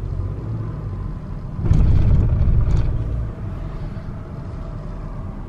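Road and engine noise heard inside a moving car: a steady low rumble that grows louder for about a second and a half around two seconds in.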